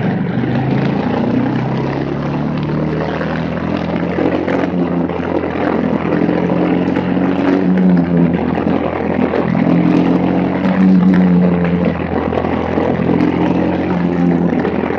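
Racing kart's Briggs & Stratton Animal single-cylinder four-stroke engine running hard, its pitch rising and falling over and over as it revs up and backs off.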